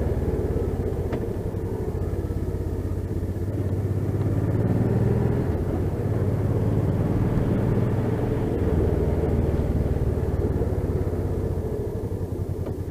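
Motorcycle engine running at road speed with wind rumble, picked up by a microphone inside the rider's helmet. The engine note rises slightly partway through and grows quieter near the end.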